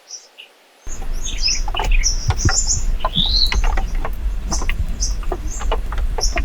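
Small birds chirping in the forest. About a second in, a loud low rumble suddenly sets in, with scattered knocks and clicks over it, while the chirping goes on.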